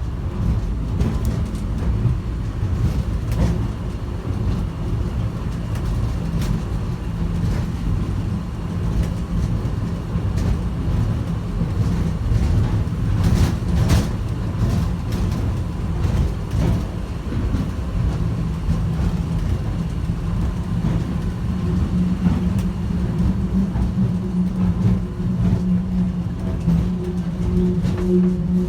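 Airport people-mover train running at speed, heard from inside the car: a steady low rumble of the car on its guideway, with a few sharp clicks about halfway through and a steady low hum that grows louder over the last few seconds.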